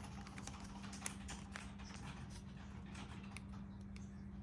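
Faint, scattered clicks and taps of a plastic action figure and its accessory being handled, over a steady low hum.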